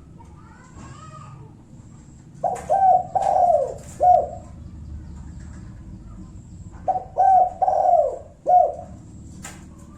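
Spotted dove (tekukur) cooing the 'kuk satu' song: two phrases, about four seconds apart, each of a few short coos and a longer coo that falls in pitch.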